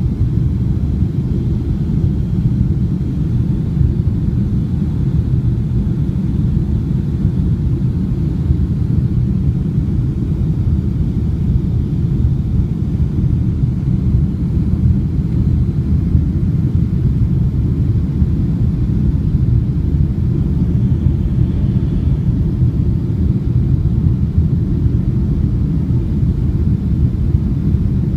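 Cabin noise of a Boeing 757-300 on final approach: a steady low rumble of engines and airflow heard from inside the cabin.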